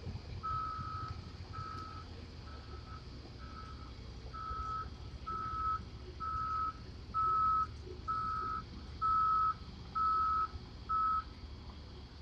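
A vehicle's reversing alarm beeping about once a second, a single steady high tone that grows louder from about the middle on, over a low engine rumble.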